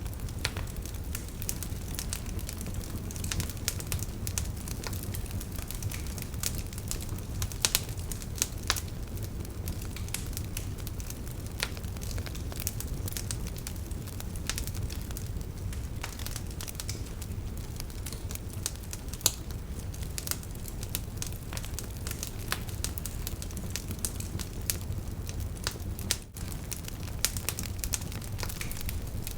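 Wood fire burning in a fireplace: a low steady rumble of flames with frequent irregular crackles and pops.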